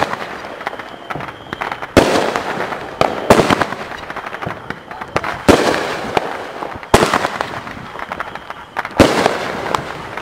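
Consumer aerial fireworks bursting overhead, four shots in quick, uneven succession. Each burst is a sharp bang followed by a fading tail of crackles.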